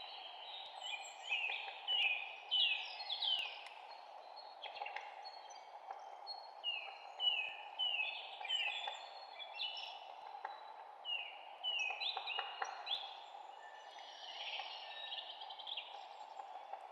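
Several songbirds chirping, with many quick, downward-sliding notes in bursts, over a steady low background hiss.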